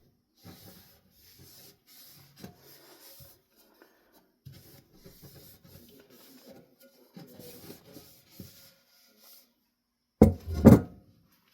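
Paper towel rubbing on a ceiling fan's housing in repeated short wiping strokes, then a loud double knock near the end.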